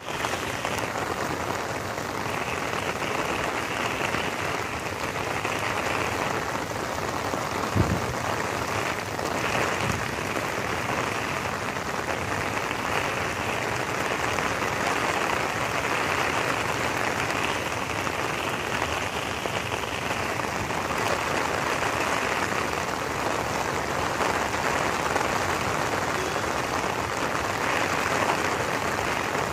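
Heavy rain falling steadily on wet stone paving, a continuous hiss, with one brief thump about eight seconds in.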